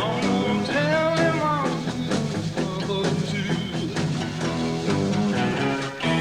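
Live blues-rock band playing: electric guitars, bass and drums, with one long note about a second in that bends up and back down.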